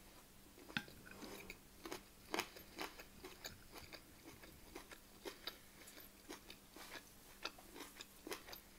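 Faint, close-miked chewing: soft wet mouth clicks of someone eating a spoonful of rice, with a wooden spoon scooping on a plate, over a low steady hum.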